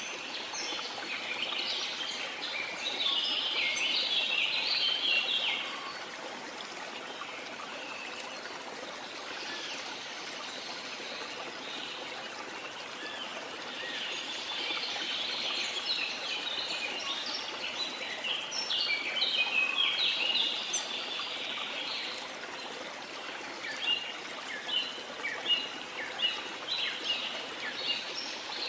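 Birds calling and chirping over the steady rush of a waterfall. The birdsong comes in busy bouts at the start and again through the middle, then as short separate chirps near the end.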